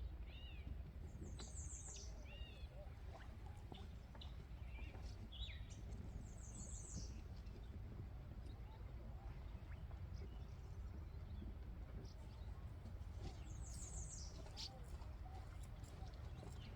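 Songbirds chirping faintly, with a short high trill heard three times among scattered chirps, over a low steady rumble.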